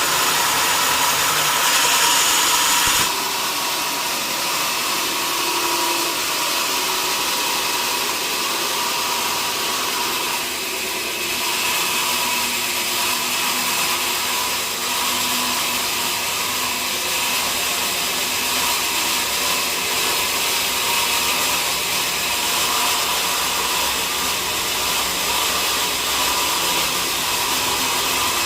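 Sawmill saw running steadily, a dense high hiss with a faint whine, likely cutting into a mahogany log. It drops in level about three seconds in, then holds steady.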